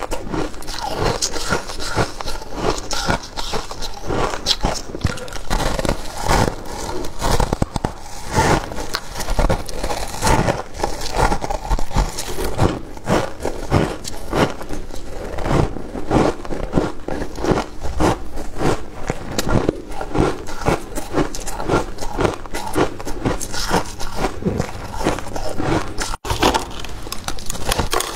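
Freezer frost being bitten and chewed close to the microphone: a dense, continuous run of crisp crunches and crackles, with some scraping.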